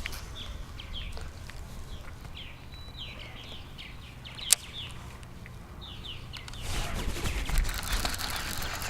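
Birds calling: many short, falling chirps repeated over and over. There is one sharp click about four and a half seconds in, and a louder rustling noise with a low rumble sets in from about seven seconds.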